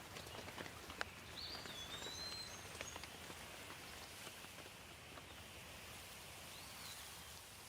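Light, steady rain with scattered drips ticking on a surface, the loudest about a second in. A bird chirps briefly a few times over the rain.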